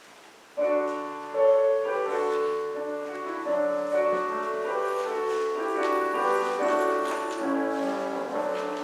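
Church organ starting to play about half a second in, sustained full chords with a moving melody, leading into a hymn.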